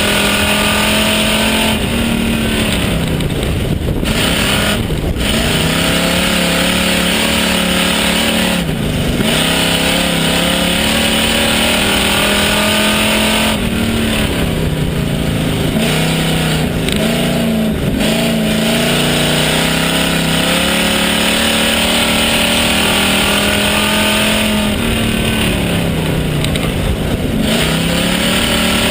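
Pure stock race car's engine heard from inside the car, running hard: its pitch drops several times as the throttle comes off and then climbs back as it accelerates again.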